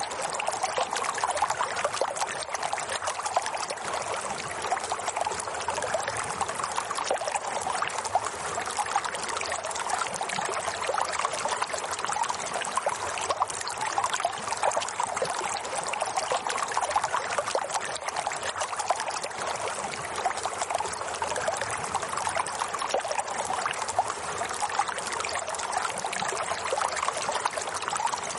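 Steady running water, a continuous trickling and babbling flow.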